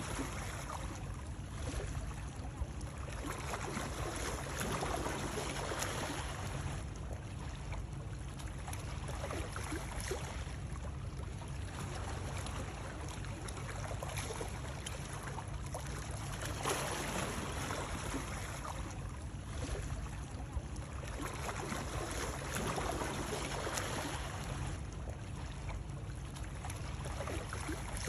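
Continuous flowing water noise that swells and eases every few seconds, over a steady low rumble.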